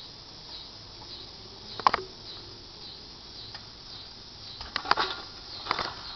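Several sharp knocks and clanks, a double knock about two seconds in and two clusters near the end, from work around an engine hanging on an engine hoist. Insects chirp steadily underneath.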